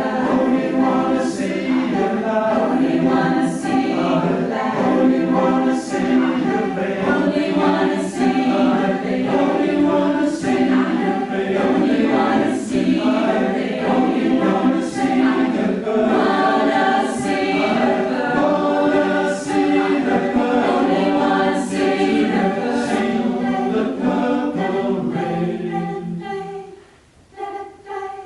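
Choir singing in many voices, with a short high hissing accent about every two seconds. The full sound breaks off a couple of seconds before the end, and lighter singing follows.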